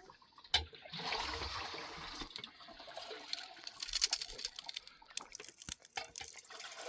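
Liquid pouring and trickling in short spells, with a few scattered knocks.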